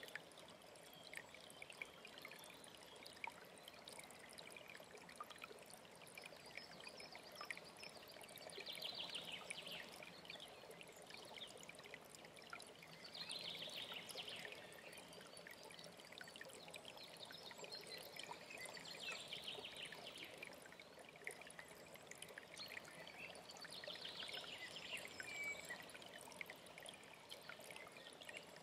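Faint, steady flow of a mountain stream, with a songbird repeating a short, rapid trilled phrase about every five seconds.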